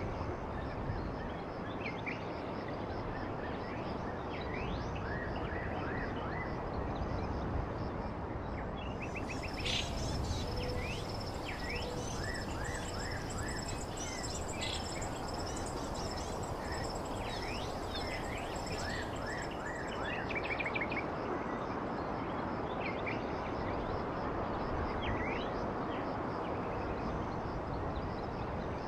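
Birds chirping, many short high calls in quick succession over a steady noise haze. From about a third of the way in to about two thirds, a thin high steady trill joins them.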